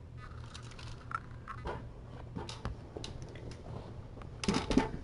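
Scattered light clicks and taps, with a quick run of louder ones near the end.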